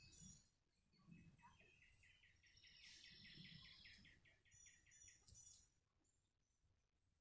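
Faint birdsong: a songbird sings a trill of about a dozen evenly repeated chirps over some four seconds, with a few higher chirps near the end, over a faint low rumble.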